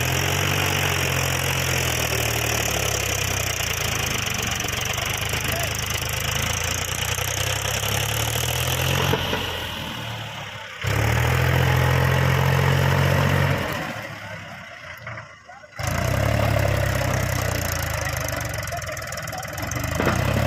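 Mahindra 265 tractor's three-cylinder diesel engine running steadily and hard, pulling an overloaded trailer. The sound drops and comes back abruptly twice, about 11 and 16 seconds in.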